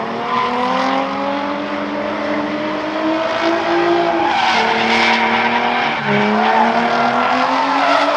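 Drift car's engine held at high revs with the tyres skidding. The engine pitch climbs slowly, dips briefly about six seconds in, then climbs again.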